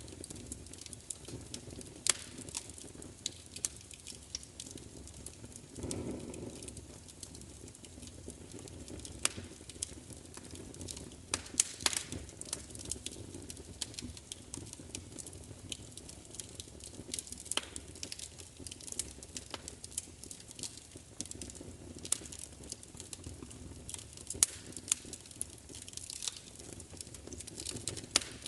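Wood fire crackling, with irregular sharp pops and snaps over a steady low hiss of burning. A soft low whoosh of flame comes about six seconds in.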